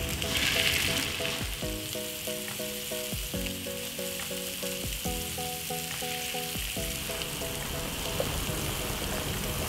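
Pork meatballs sizzling and frying in a hot, lightly oiled frying pan as they are set in one by one, a steady crackling hiss. Light background music with short plucked-sounding notes plays underneath.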